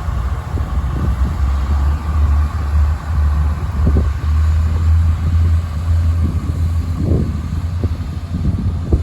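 A train running past with a steady low rumble, with wind buffeting the phone's microphone and irregular low thumps in the second half.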